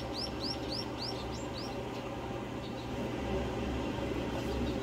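A bird calling a quick series of short, high, falling chirps, about four a second, that fade out under two seconds in. A steady low hum runs underneath.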